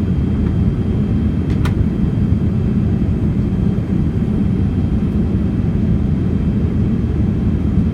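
Steady in-flight cabin noise of a Boeing 787 on descent: an even, low drone of engines and airflow, with a single sharp click about one and a half seconds in.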